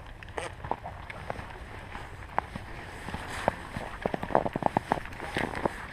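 Footsteps crunching in snow, sparse at first and coming quicker and louder from about four seconds in, over a low steady rumble.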